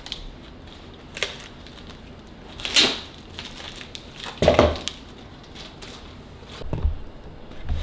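Food packaging being handled on a kitchen counter: four short bouts of crinkling and rustling with soft knocks, the loudest two in the middle.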